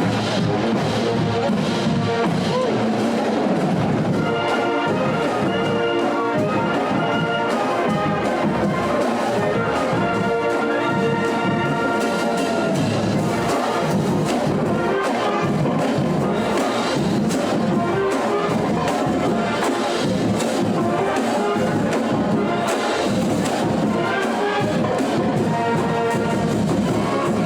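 Marching band playing: brass section on sustained and moving notes over drums.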